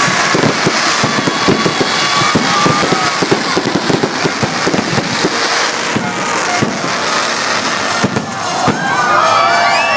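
Fireworks going off: a dense run of rapid bangs and crackles, with a crowd starting to cheer and whoop near the end.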